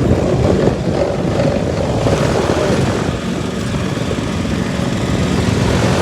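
Lawn mower engine running steadily at working speed, with a constant low hum and only small rises and falls in level.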